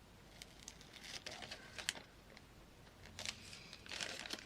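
Scissors cutting through a single layer of a plastic bag, the plastic crinkling with sharp snips. The cutting comes in two spells.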